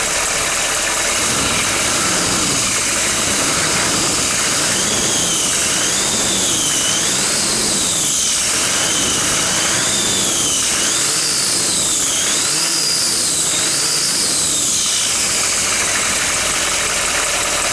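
Chevrolet K2500's 6.5-litre turbo diesel V8 revved up and down several times, the exposed turbocharger's high-pitched whine rising and falling with each blip of the throttle. The turbo squeals.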